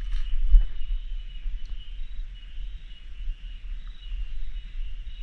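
Steady, high-pitched chorus of rainforest cicadas, with a low rumble underneath that is strongest in the first second.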